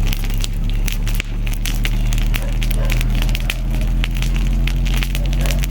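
Wood campfire crackling, with many sharp irregular pops and snaps, over a steady low hum.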